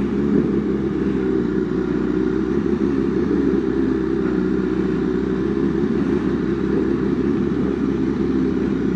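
Superbike engine running at a steady, even speed while riding, with wind noise.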